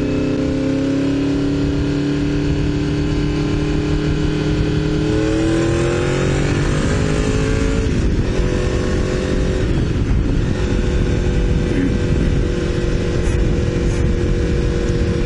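Honda VFR750's V4 engine heard from a helmet camera while riding, with wind rushing over the microphone. It holds a steady pitch, rises as the bike accelerates from about five seconds in, drops sharply about eight seconds in, dips again a couple of seconds later, then settles at a steady pitch.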